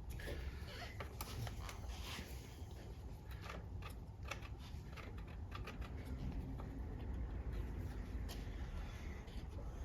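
Scattered light clicks and taps of small transmission parts being handled and fitted by hand, over a steady low hum.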